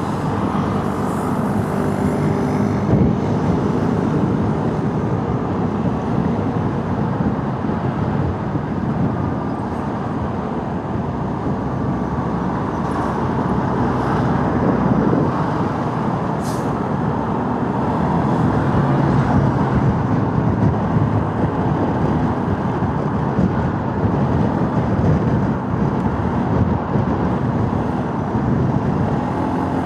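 Motorcycle engine running at a steady cruise, mixed with road and wind noise on the rider's microphone and the sound of surrounding traffic.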